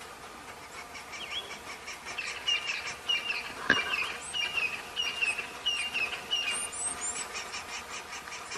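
A bird calling a steady series of short, repeated chirps, nearly two a second, with one sharp click a little before halfway.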